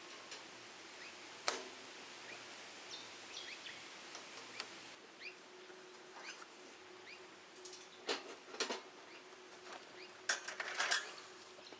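Faint, short bird chirps scattered through outdoor quiet, broken by a few sharp clicks and rustles, the loudest a cluster near the end. A faint steady hum comes in about halfway through.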